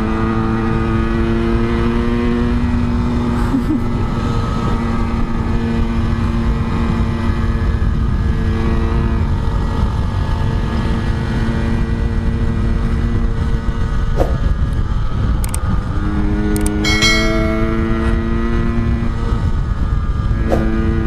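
Yamaha RX-King's 135 cc single-cylinder two-stroke engine running at a steady cruising speed under heavy wind rumble on the microphone. Its note drops out about two-thirds of the way through, then returns rising as the throttle opens again.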